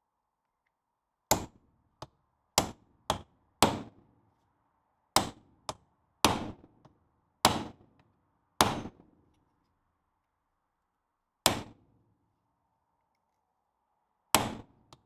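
Hammer blows on steel, about a dozen sharp ringing strikes at uneven intervals with a long gap near the end: a Land Rover Series 2 wheel bearing nut being knocked round to undo it, the nut badly chewed from being struck.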